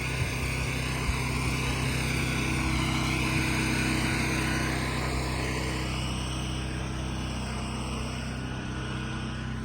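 An engine running steadily at an even pitch, with a hiss over it that dies down about six seconds in.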